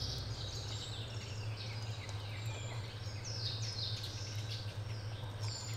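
Birds singing, a run of short descending chirps repeated over and over, over a steady low hum.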